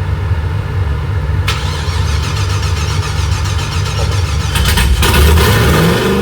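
Newly built supercharged methanol engine of a Holden VT Calais running on its first fire-up. It gets louder and busier about 1.5 s in and again from about 5 s.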